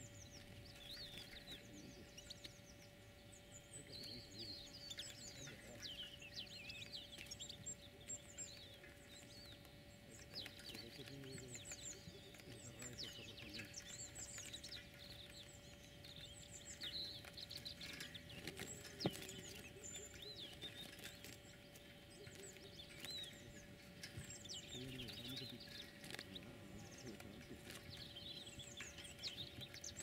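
Small birds chirping and twittering steadily, faint, in many short high calls, over a faint steady hum. A single sharp knock about two-thirds of the way through.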